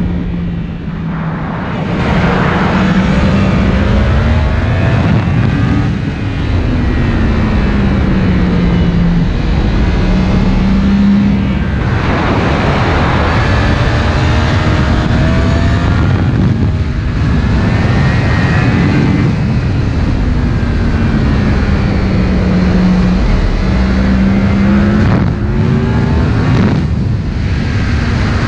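Yamaha MT-10's crossplane inline-four engine under way through an Akrapovic exhaust cartridge, its note climbing and falling back several times as the bike accelerates and eases off.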